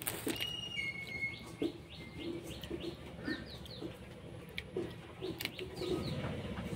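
Small birds chirping in short, quick falling notes, with a few held whistles, over a steady low hum. A few sharp cracks come in between as cooked crab shell and legs are snapped apart by hand.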